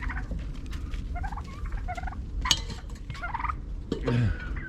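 A flock of domestic turkeys calling, a string of short high chirping yelps from several birds at once. A sharp click comes about two and a half seconds in, and a louder low, falling sound about four seconds in.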